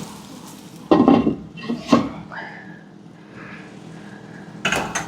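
Dishes and pots being handled in a kitchen: short clattering knocks about a second in, again around two seconds in, and near the end.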